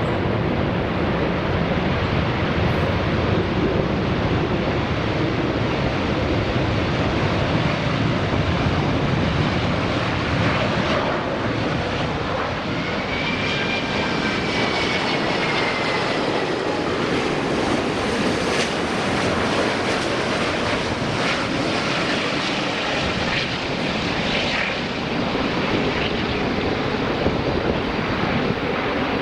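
Airbus A380 landing close by: the steady, loud noise of its four jet engines on approach, with a faint gliding whine over it partway through.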